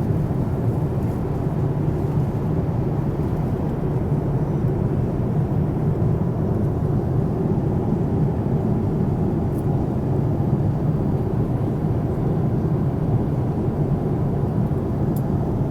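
Steady cabin noise of a Boeing 787 airliner in cruise: the even, low rumble of engines and airflow heard from an economy seat.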